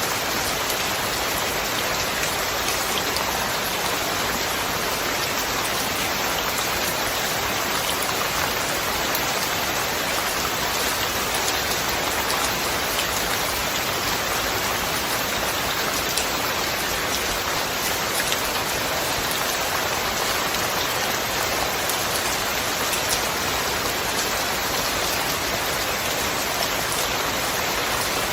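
Steady heavy rainfall, an even hiss of rain with scattered drop ticks and no thunder.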